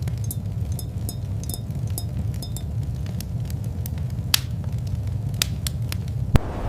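Fire crackling: scattered sharp pops and snaps over a steady low rumble, with one louder crack near the end.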